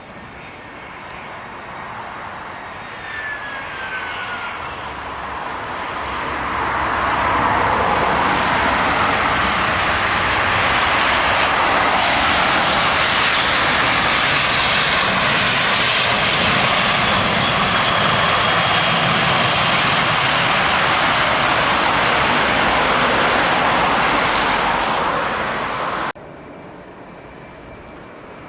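Jet airliner coming in to land, its engine noise growing over several seconds from a distant hum to a loud steady rush, with a short falling whine early on. The sound eases slightly and then cuts off abruptly near the end.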